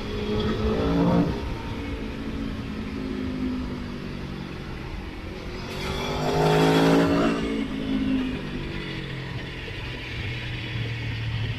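Motorcycle engine on the road, revs climbing twice, about a second in and again around seven seconds, each time easing back down as the throttle closes.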